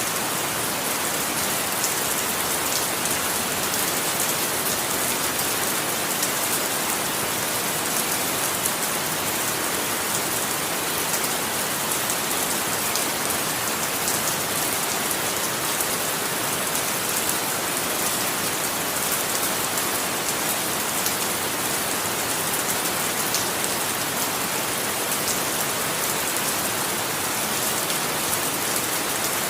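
Steady rain falling on a surface, an even hiss with many small drop ticks and no change in intensity.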